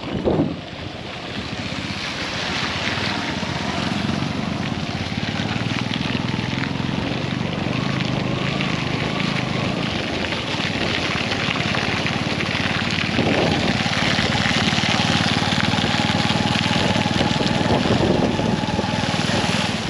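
Road traffic noise: a steady rumble of passing vehicles, with a short bump right at the start and a steady engine whine held through the last several seconds.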